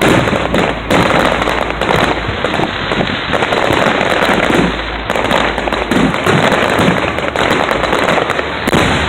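Aerial fireworks going off in a dense barrage: rapid, overlapping bangs and crackles with no pause between them.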